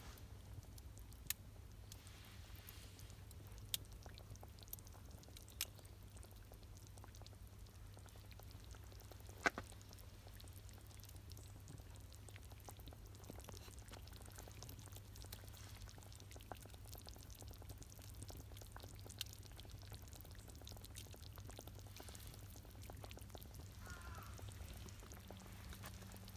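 Faint campfire crackling: a few scattered sharp pops, one louder than the rest about a third of the way in, over a low steady hum.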